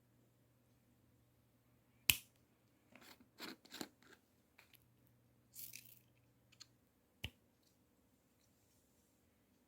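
Scattered handling sounds: a sharp click, a quick run of knocks, a short rustle and a final click.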